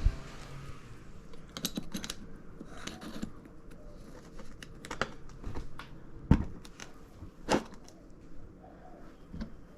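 Metal transmission parts being handled on a workbench: scattered light clicks and clinks, with two sharper knocks about six and seven and a half seconds in.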